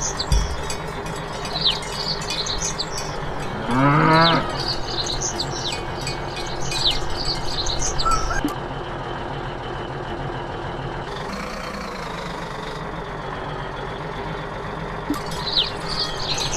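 Farm ambience: birds chirping in short falling calls, with one cow moo about four seconds in, over a steady low hum.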